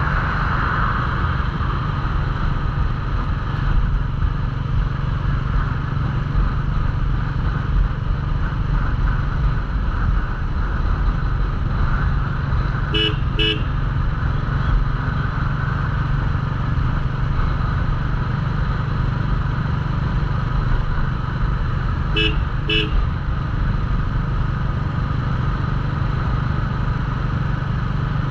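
Royal Enfield Classic 350's single-cylinder engine running steadily at cruising speed, with wind rushing over the microphone. A horn gives two short double toots, about halfway through and again about 9 seconds later.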